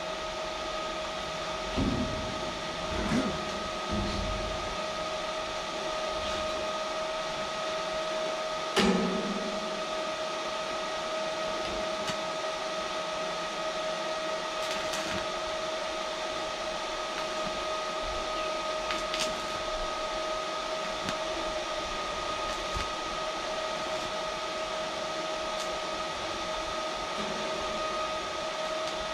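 Electric arc welding along the outer edges and corners of a steel boat hull: a steady hiss with a constant two-note hum, and a few knocks in the first ten seconds.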